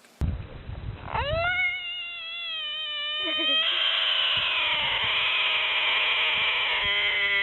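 An animal's long, drawn-out cry: it rises in pitch at the start, then is held at one steady pitch for several seconds and turns harsher about halfway through.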